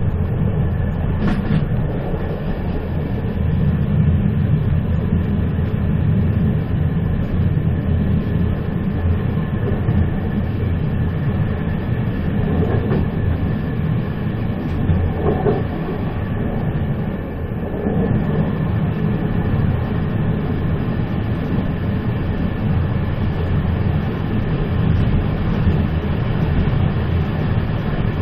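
Train in motion on the rails: a steady low rumble, with a brief sharp click about a second in.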